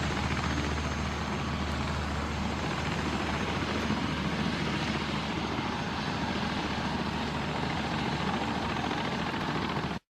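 Rallye 110 ST light aircraft's Lycoming O-235 piston engine and propeller running steadily, a dense, even drone that cuts off suddenly near the end.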